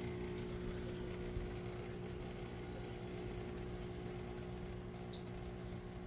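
Aquaponics system's water pump humming steadily, with water running through the system.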